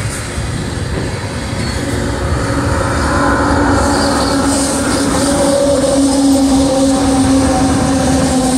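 Freight train running past, a continuous rumble with a steady droning tone that comes in about two seconds in and grows louder.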